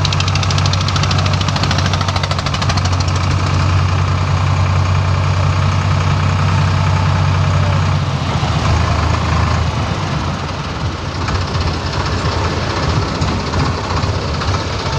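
Tractor diesel engine running close by with a steady, rapid knocking beat. About eight seconds in the low engine note fades back and a rougher mix of engine noise carries on.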